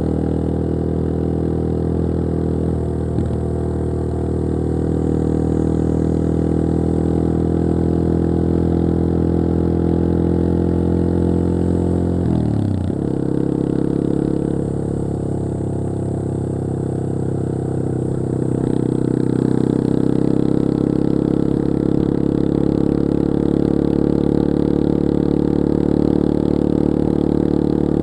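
Yamaha XT225 Serow's air-cooled single-cylinder four-stroke engine running steadily while riding. About halfway through, the engine note drops briefly and picks up again, and it runs a little louder over the last part.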